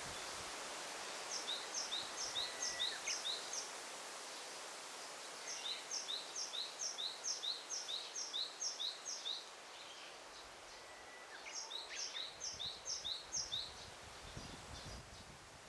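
A small songbird singing three phrases of rapid repeated high two-part chirps, each phrase about six to ten notes long, over a steady hiss of forest ambience.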